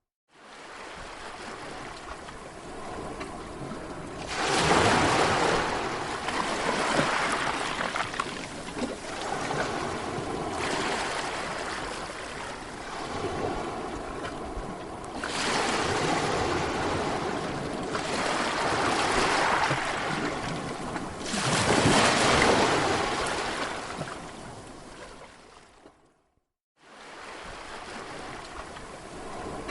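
Sea waves washing onto a shore, a steady rush that swells louder three times as bigger waves break and then recede. The sound cuts out to silence for under a second near the end before the surf resumes.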